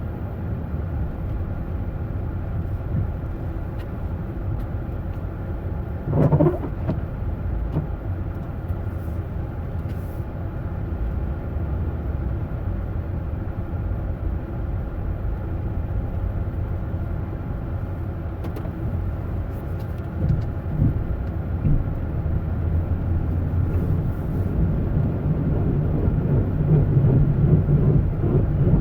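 Steady low rumble of a running motor vehicle, with a brief louder swish about six seconds in, growing a little louder near the end.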